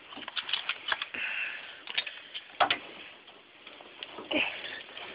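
Scattered clicks and clinks with short bursts of rustling, a sharper clack about two and a half seconds in and another near the end: rummaging through a plumber's tool bag for fittings.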